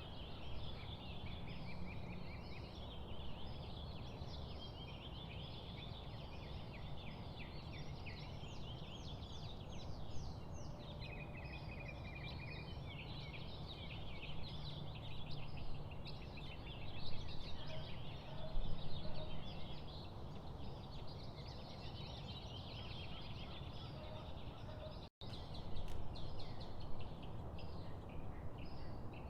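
A dense chorus of many small songbirds chirping and trilling together in quick, overlapping runs, over a steady low rushing background noise. The sound cuts out for an instant near the end.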